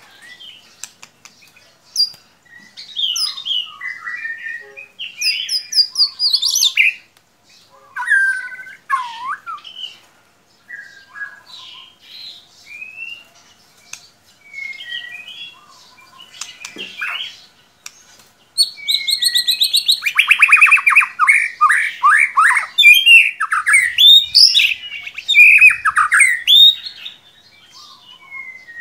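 White-rumped shama (murai batu) singing: a varied run of clear whistled phrases, chirps and harsh notes, scattered at first, then a loud, dense stretch of rapid trills and quick phrases in the second half.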